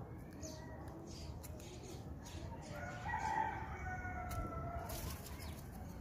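A bird gives one drawn-out call starting about three seconds in and lasting about a second and a half, over a steady low background rumble.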